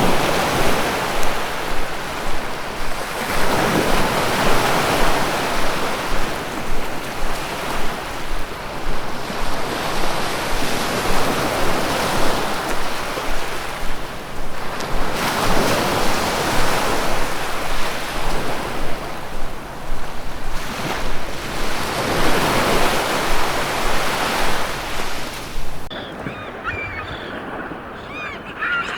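Ocean surf: waves breaking and washing up the shore in repeated surges every few seconds. Near the end the surf cuts off abruptly to a quieter scene of birds calling.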